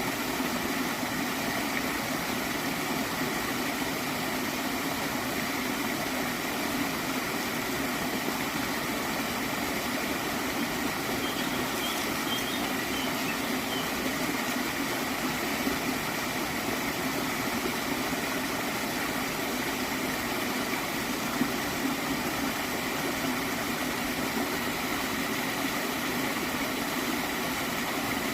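Gentle stream of water flowing and gurgling, a steady, unchanging rush.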